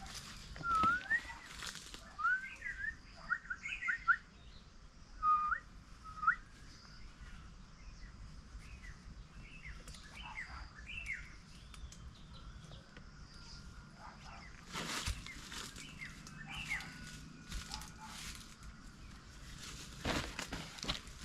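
Forest birds singing: short, clear whistled notes and rising glides, densest in the first few seconds and coming back in scattered phrases. A couple of brief rustling noises come later.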